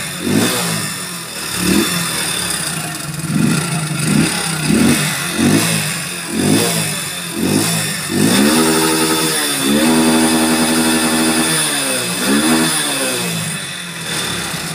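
Hero Splendor BS6's single-cylinder engine revved in a series of quick throttle blips, then held at higher revs for a few seconds and let fall back to idle near the end. The engine carries a timing-chain noise, which the mechanic names as its main fault.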